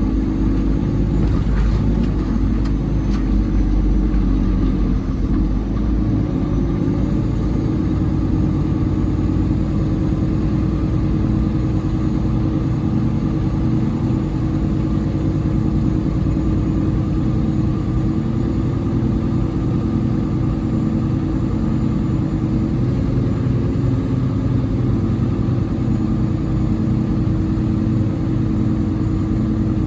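Peterbilt 389 semi-truck's diesel engine running steadily at an even pitch.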